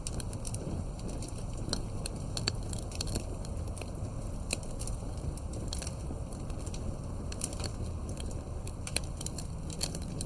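Wood campfire crackling: frequent sharp, irregular pops and snaps over a steady low rumble.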